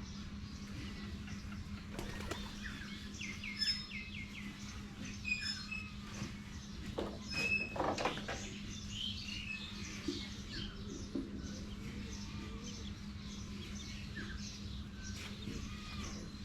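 Baby chicks peeping continually in short, high chirps, with a mother hen giving a few louder calls in the middle and low clucks a little later, the hen's clucks calling the chicks to food. A steady low hum runs underneath.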